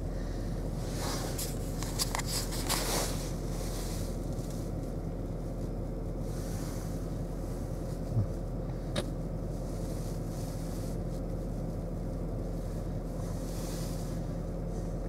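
2017 Ford Escape's engine idling steadily at about 1,000 rpm while warming up from a cold start, heard from inside the cabin. A few light clicks come in the first three seconds and a soft thump about eight seconds in.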